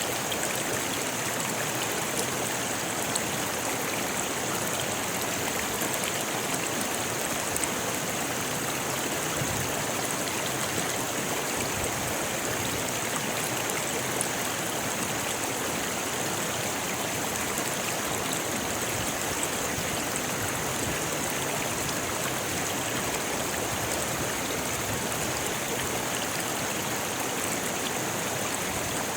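Rocky river flowing over stones: a steady, unbroken rush of water.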